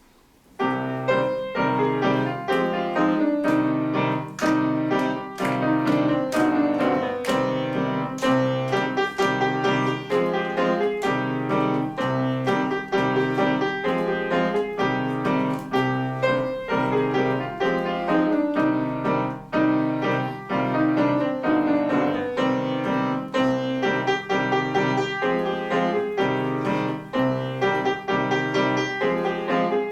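Solo piano playing a continuous run of quick notes, starting about half a second in.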